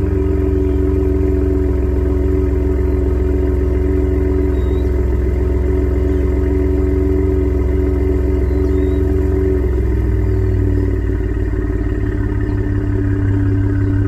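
Exhaust of a 2017 Ford F-150's 3.5 L EcoBoost twin-turbo V6 with the resonators deleted, running at a steady engine speed. The note shifts and deepens about ten seconds in.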